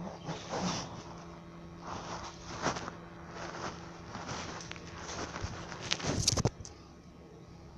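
Irregular handling noises: knocks, rustles and clatter, with a louder rattle about six seconds in, over a faint steady hum.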